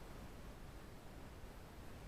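Faint steady hiss with a low rumble: quiet room tone, with no distinct sound event.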